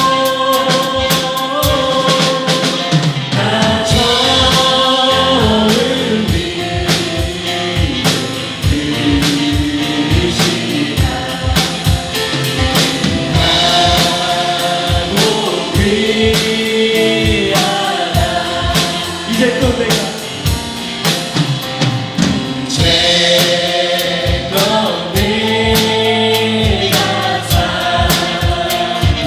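Worship band and singers performing a gospel praise song: several voices singing in harmony over a drum kit that keeps a steady beat.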